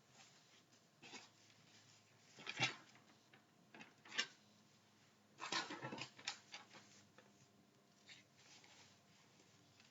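Faint, scattered clinks and scrapes of a kitchen utensil against the frying pan as deep-fried okra are lifted out of the oil, with a cluster of them in the middle.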